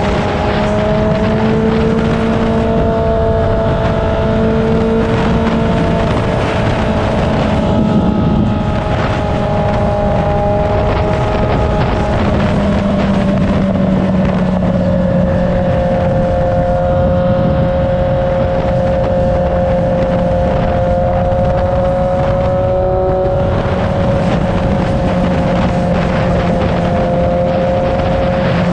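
Motorcycle engine running at a steady cruise under wind noise, its pitch easing down a little about halfway through and then holding.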